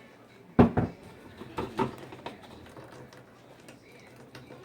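Kitchen clatter: two pairs of sharp knocks about a second apart, the first pair loudest, then a few light ticks, as utensils are handled while straining fresh juice.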